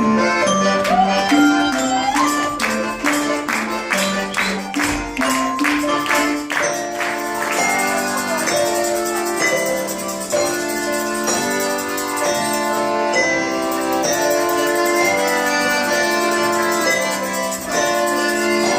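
Russian folk music played by an instrumental ensemble: a melody in steady held notes over a rhythmic tambourine, whose strikes stand out most in the first several seconds.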